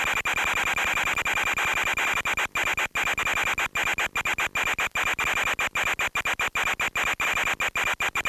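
Harsh hiss with a steady high whine, as heard over an FPV plane's radio audio link, chopped by many brief dropouts that come thick and fast from about two seconds in.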